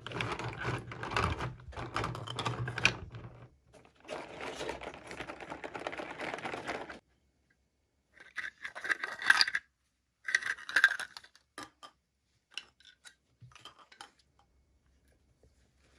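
Toy packaging being handled and opened: rustling and crinkling, two louder crackling bursts about halfway through, then a few small clicks.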